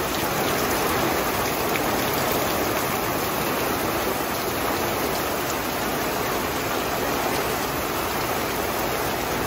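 Heavy rain pouring down in a steady hiss, heard from under an RV's awning.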